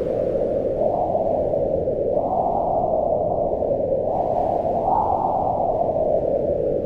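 Wind blowing in a low, hollow whoosh, swelling in gusts about a second, two seconds and five seconds in, each gust briefly raising its pitch before easing back.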